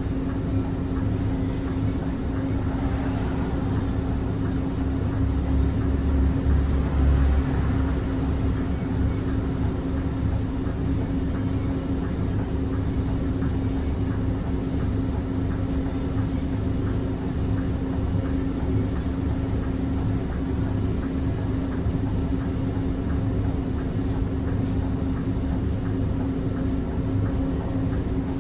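Scania K280UB city bus heard from inside the cabin while on the move: steady engine drone and road rumble with a constant hum. The low rumble grows louder for a few seconds about five seconds in, then settles.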